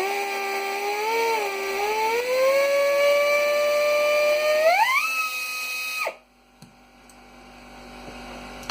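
Dotco 15L right-angle pneumatic air tool running free while its variable-speed throttle is worked: a whine that climbs in steps, dips briefly about a second in, rises steadily, then jumps sharply higher near five seconds. It holds at top speed and cuts off suddenly about six seconds in.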